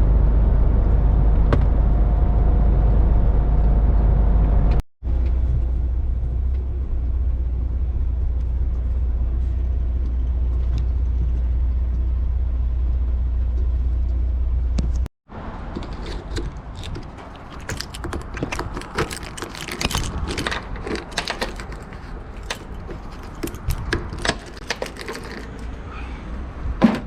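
MAN TGX semi truck driving, heard from inside the cab as a steady low rumble; the sound cuts out sharply twice. After the second cut it is quieter, with irregular clicks and light rattles.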